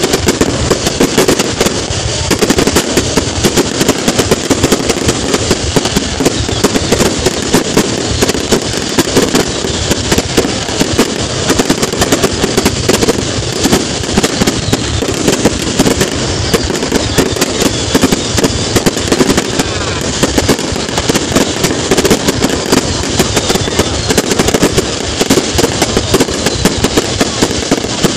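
Aerial fireworks display going off overhead: a dense, unbroken stream of rapid bangs and crackling from bursting shells and rising comets, with no pauses.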